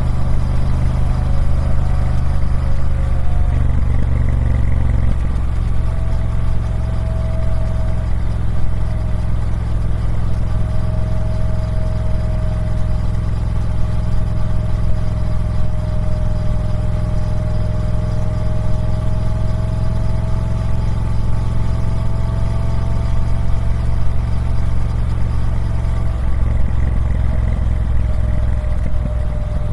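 Triumph Speed Twin 1200's parallel-twin engine running through its stock exhaust, a steady note that shifts briefly about four seconds in and again near the end.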